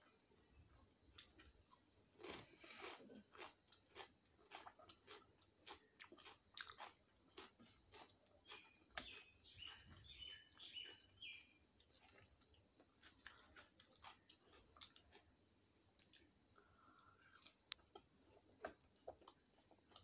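Faint close-up eating sounds of puri, chole and raw onion salad being chewed: soft wet chewing with many small clicks, smacks and light crunches.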